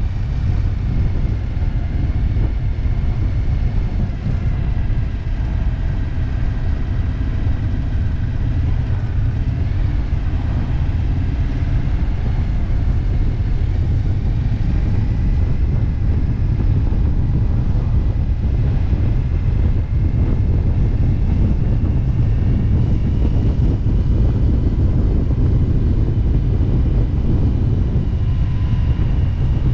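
A motorcycle under way at road speed: a steady engine drone with slowly shifting pitch under heavy wind rumble on the microphone.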